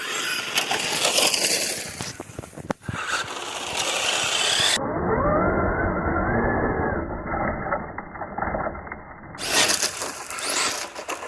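Traxxas Sledge Hammer VXL RC monster truck driving, its brushless electric motor whining up and down in pitch as it speeds up and slows, with the tires churning over the ground.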